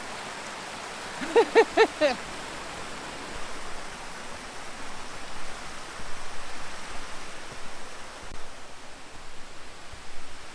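Steady rush of a mountain stream flowing fast over rocks. About a second and a half in come four short, quick pitched sounds, and from about three and a half seconds the noise grows louder and more uneven.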